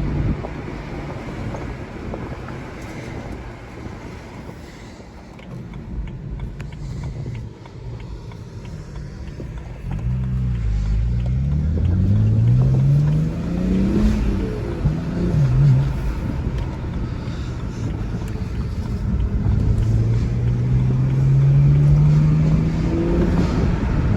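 BMW 335xi twin-turbo straight-six, breathing through a cold air intake with a stock exhaust, heard from inside the car over road and wind noise. It runs low and even for the first half. About ten seconds in it pulls hard through the gears, rising in pitch, changes around fourteen to sixteen seconds in, then climbs again near the end.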